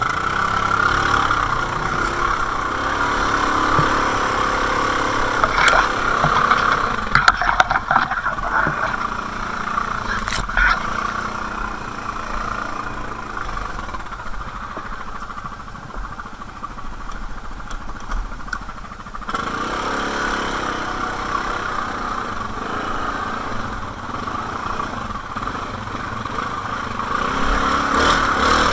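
ATV (quad) engine running steadily, with a few short knocks and rattles between about seven and eleven seconds in. The sound shifts in character about two-thirds of the way through.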